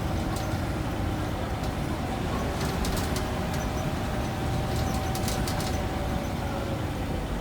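Scania N94UB single-deck bus running steadily, a constant low engine rumble with a steady whine over it and a few brief rattles in the middle.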